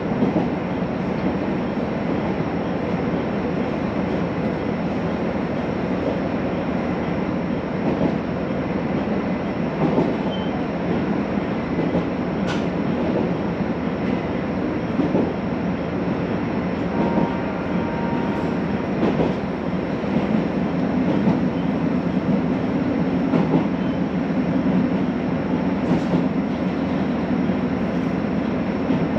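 Running noise heard from inside a JR Hokkaido H100 "DECMO" railcar under way: a steady rumble of wheels on rail with scattered faint clicks, and a brief high squeal a little past the middle.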